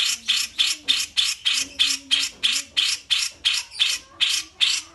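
A bulbul (cucak jenggot or kapas tembak) calling a rapid, even series of harsh, scratchy notes, about four a second.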